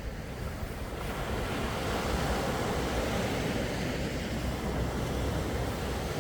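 Sea waves washing onto the shore, a wave swelling in about a second in and easing off again, over a steady low rumble.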